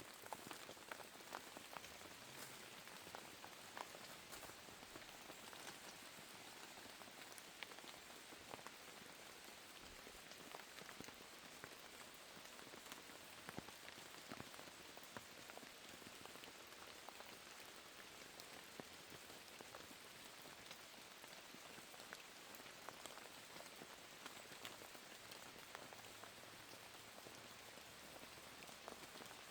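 Steady rain falling, with many small individual drop ticks over a soft even hiss.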